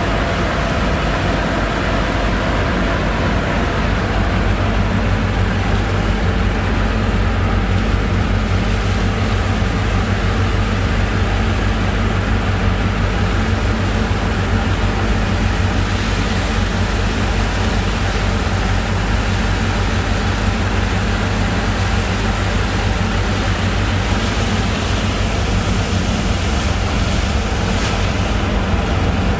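The engine driving a sand boat's pump, running steadily under load with a continuous hiss over its low hum.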